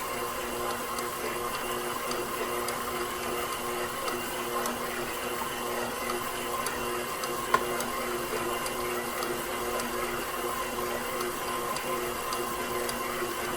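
KitchenAid Professional 6000 HD stand mixer's DC motor running steadily as its spiral dough hook kneads bread dough, an even mechanical hum with a single light tick about halfway through.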